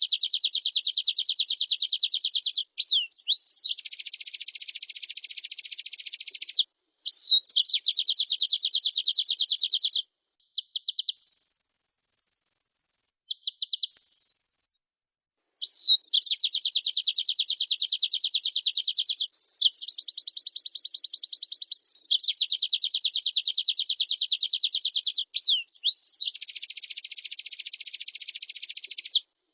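White-eye (pleci) singing: long, very fast trilling song phrases of a few seconds each, separated by short sliding notes and brief pauses. Near the middle, two shorter, higher and harsher phrases break in.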